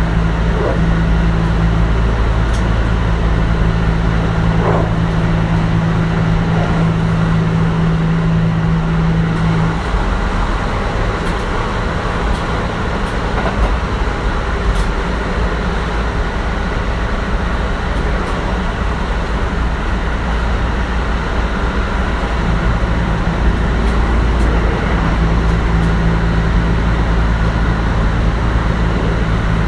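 Kintetsu 1420 series electric train with Mitsubishi GTO-VVVF traction running at speed, heard from inside the car: a steady rumble of motors and wheels on rail. A low hum drops out about a third of the way in and returns near the end.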